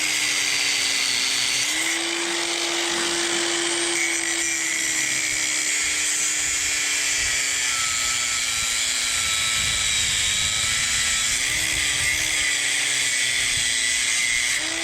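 Angle grinder cutting through a corroded steel mooring shackle: a steady high motor whine over a harsh hiss, its pitch sagging as the disc bites and rising again when the load eases, a couple of times.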